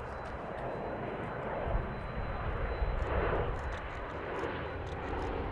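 Jet airliner on its landing approach, its engine noise steady and growing slowly louder as it comes nearer.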